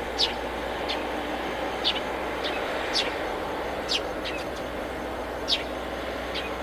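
A bird chirping repeatedly, short high calls that drop quickly in pitch, about one a second, over a steady whirr.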